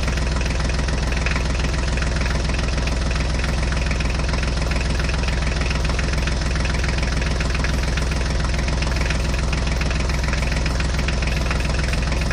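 Tractor engine idling with a steady, rapid low chugging that does not change.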